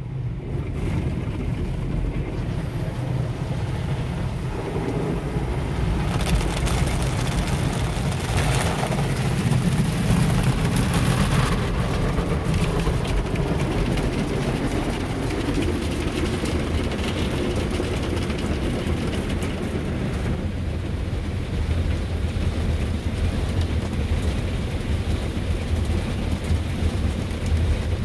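Ryko SoftGloss Maxx soft-touch automatic car wash working over the car, heard from inside the cabin: a steady low rumble of the machine with water spray and brushes washing against the body, loudest from about 6 to 12 seconds in.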